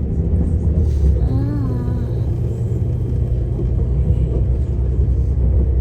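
Passenger train's steady running rumble heard from inside the carriage as it travels along the line.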